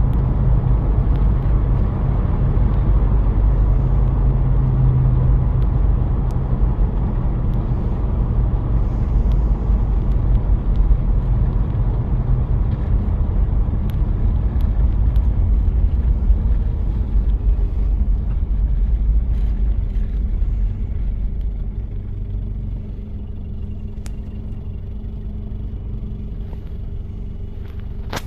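1993 Toyota Prado diesel engine running under way, with road noise. It gets quieter from about twenty seconds in, settling to a steadier, lower engine note.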